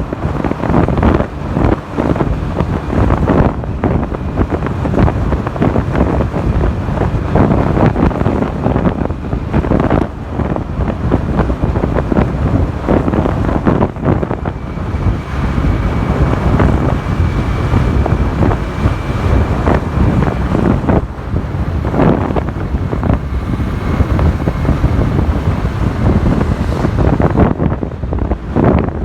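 Wind buffeting the microphone on a moving motorcycle, a loud gusty rush with the bike's running and road noise underneath. A faint high whine comes in for a few seconds about halfway through.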